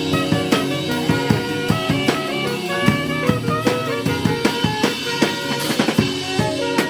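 Instrumental band music: drum kit keeping a steady beat, with snare and bass drum hits, under sustained keyboard or organ chords.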